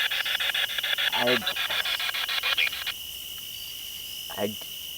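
Ghost-hunting spirit box rapidly sweeping through radio stations: choppy static at about ten pulses a second that cuts off suddenly about three seconds in. A steady high insect chirr carries on underneath and after.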